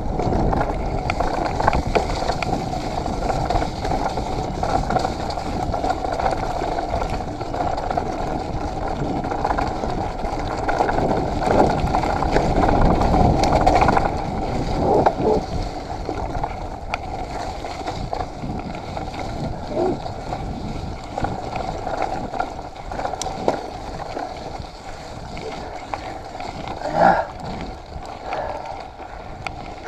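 Mountain bike riding along a wet, muddy trail: steady rolling and wind noise on the bike-mounted or body-worn camera, with small clicks and rattles. A short pitched sound cuts in about 27 seconds in.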